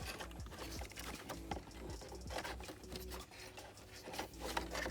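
Irregular light clicks and rustling as electrical wires are handled and fed through the car's plastic centre-console trim.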